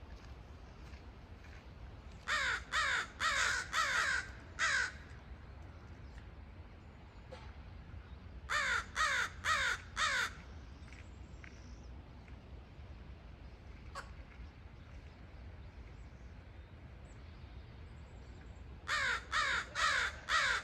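A crow cawing in three bouts of four or five calls, about two calls a second, each caw falling in pitch, over a steady low background rumble.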